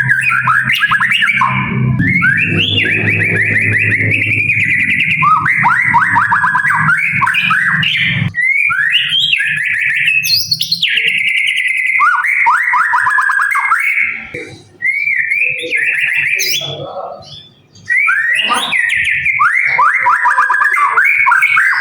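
White-rumped shama (murai batu) singing a long, unbroken song of rapid trills and whistled phrases, pausing briefly twice about two-thirds of the way through. A low droning hum runs under the song for the first eight seconds or so.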